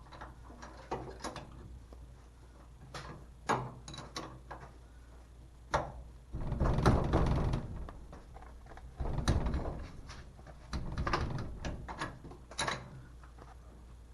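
Scattered metallic clicks and knocks of hand tools and parts as a race car's brake caliper is unbolted and handled. A few longer scraping rattles come about six, nine and eleven seconds in.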